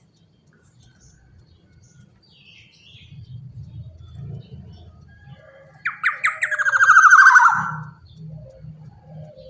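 Black-naped oriole giving one loud, harsh, rasping call about six seconds in, lasting under two seconds and sliding down in pitch at the end, after a few faint chirps. A faint low hum runs underneath.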